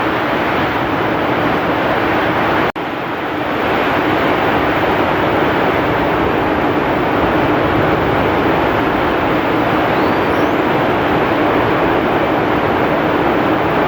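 Heavy rain pouring with strong wind: a loud, steady, even roar of noise. It breaks off for an instant about three seconds in, then resumes.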